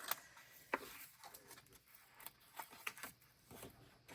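Faint scattered clicks and light taps from handling paper and craft supplies on a desk.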